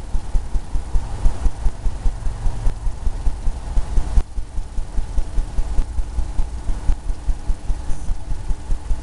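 Paintbrush dabbing and scrubbing oil paint onto a canvas on its easel: an even run of low, soft knocks, about three a second, with a short break about four seconds in.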